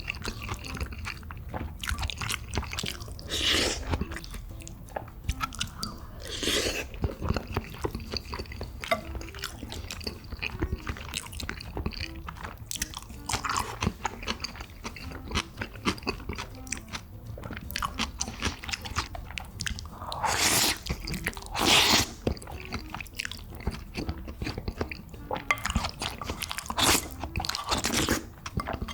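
A person chewing and eating close to the microphone: a steady run of wet mouth clicks and crunches, with a few louder bursts of eating noise about three, six, twenty and twenty-two seconds in.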